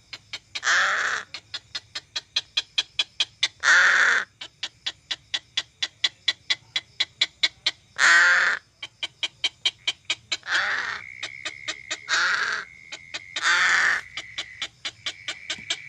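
Crow cawing: six loud, harsh calls of about half a second each, spaced one to four seconds apart. Between the calls runs a fast, even ticking of several clicks a second, and a thin steady high tone comes in about two-thirds of the way through.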